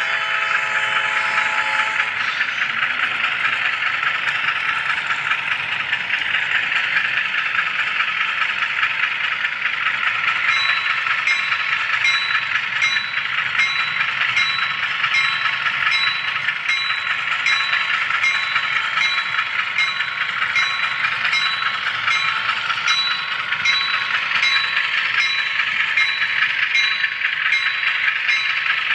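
HO scale model train rolling along the track, heard close up: a steady rolling hiss of small wheels on rails, with faint regular clicks. From about ten seconds in a thin, steady high whine joins it.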